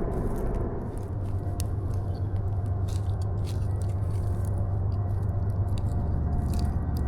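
Campfire under a grill crackling and popping in scattered sharp clicks, over a steady low rumble.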